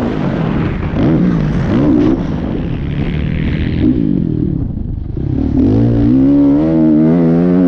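Kawasaki KX450F's single-cylinder four-stroke engine rising and falling in revs under the throttle, dropping off about four and a half seconds in, then climbing again about a second later and holding steady high revs.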